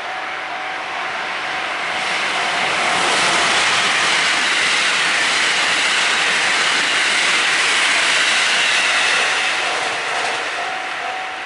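Electric train passing close by at speed: its running noise swells, holds loud for several seconds, then fades away. A level-crossing warning bell rings at the start and again near the end, covered while the train goes by.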